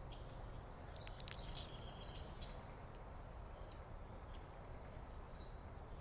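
Faint bird calls over steady low background noise: a high call from about a second in to two and a half seconds, then a few brief, scattered chirps.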